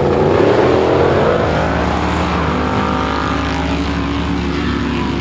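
Off-road race buggy engines running hard at full throttle, their pitch climbing through the first second and a half before holding high and steady.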